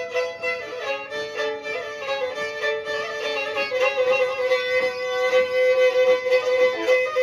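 Black Sea kemençe playing an instrumental interlude between sung verses: quick bowed runs of notes, settling into a long held note from about halfway through.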